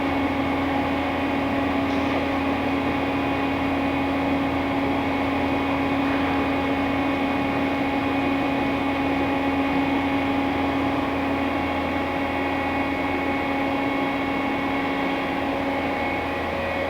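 Fadal VMC4020A vertical machining center running, a steady machine hum and whine that holds one pitch.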